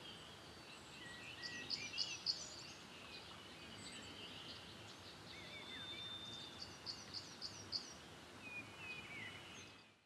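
Faint outdoor ambience with songbirds singing: two runs of four or five quick, sharp, high notes among scattered chirps, over a soft hiss, fading out near the end.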